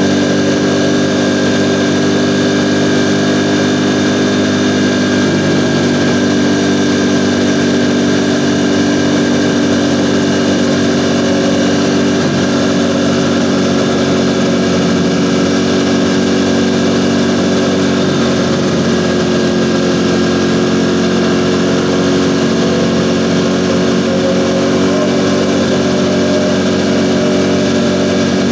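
Ducati Panigale V4 motorcycle's V4 engine running steadily at a near-constant speed, its pitch wavering only slightly.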